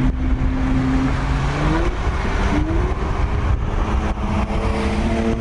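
Straight-piped V6 exhaust of a third-generation Acura TL pulling under acceleration: the engine note holds steady, drops briefly at a gear change about two seconds in, then climbs steadily, over road noise.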